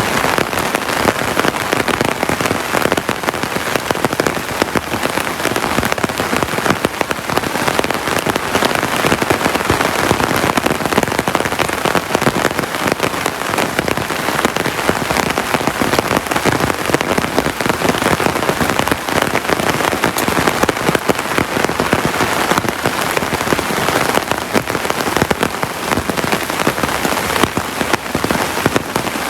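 Heavy rain falling steadily: a dense, even patter of countless drops hitting surfaces.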